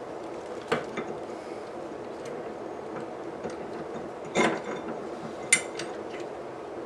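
A few sharp metallic clinks and knocks of a steel anvil piece and tools being handled on the bench, three in all, over a steady low hum.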